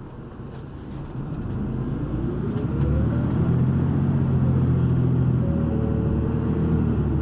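City bus diesel engine revving up as the bus accelerates, its pitch and loudness rising over the first three seconds, then running steadily. Heard from inside the bus.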